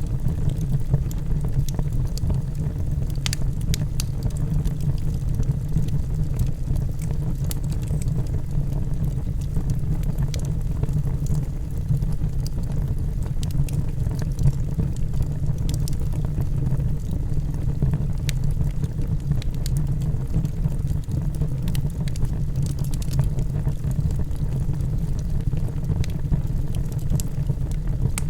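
Logs burning in a fireplace: a steady low rumble of the fire with scattered sharp crackles and pops throughout.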